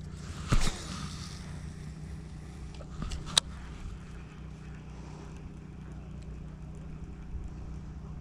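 Wind rumbling on the microphone throughout. A short whoosh comes about half a second in, like a fishing rod being cast, and a single sharp click follows about three seconds later.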